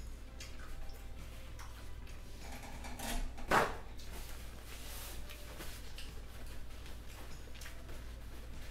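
Small wet clicks of a person chewing a taco with the mouth closed, over a steady low hum. About three and a half seconds in comes a short loud rustle of a paper towel being pulled and shaken open.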